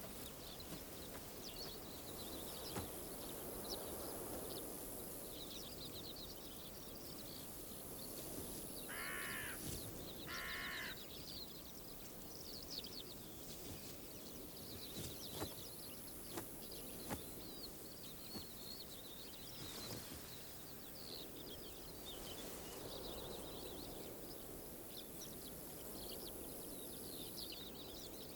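Open-country ambience with faint chirping throughout and a high hiss that comes and goes every few seconds. About nine and ten and a half seconds in, a large bird gives two harsh calls.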